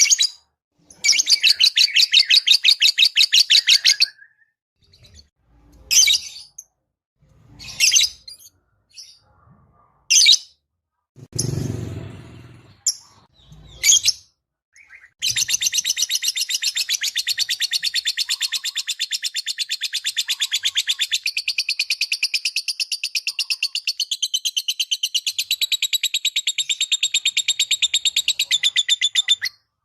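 Lovebird chattering: a few seconds of rapid pulsed trilling, then several short calls, then one long unbroken rapid trill lasting about fourteen seconds. A short low noise sounds about twelve seconds in.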